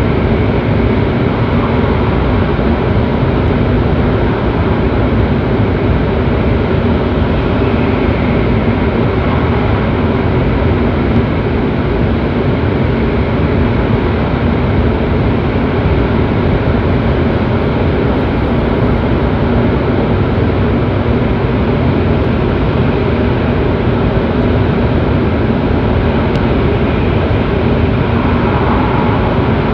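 Cabin noise of a JR East E7 series Shinkansen running at speed: a loud, steady rumble with no breaks.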